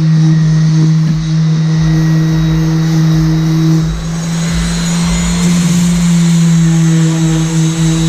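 Electric power sander running steadily with an even motor hum, its rasping against the boat's surface growing stronger for a few seconds midway.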